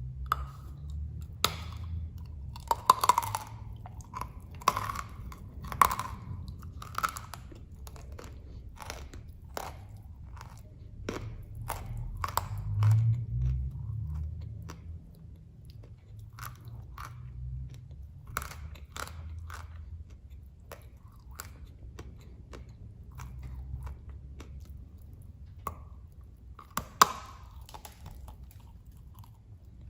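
Close-up crunching and chewing of dry, hard baked edible clay (khawa) pieces. Irregular crisp cracks and crunches come as the pieces are bitten and chewed, in busier clusters a few seconds in, again around the middle, and once more near the end.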